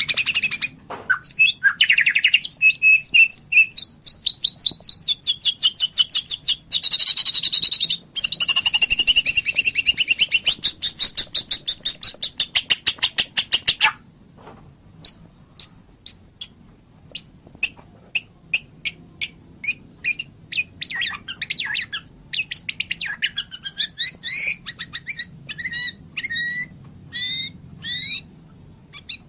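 White-rumped shama singing. For about the first half it gives dense, very fast trills and rattles; then come scattered sharp chip notes, building to short whistled phrases near the end.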